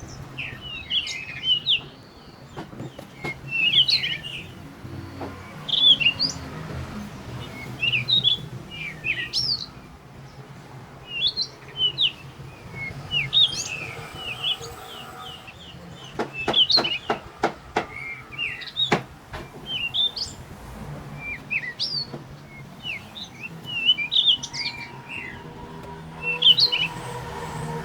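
Small birds chirping in quick repeated phrases, over a low steady hum. A little past halfway comes a quick run of sharp taps.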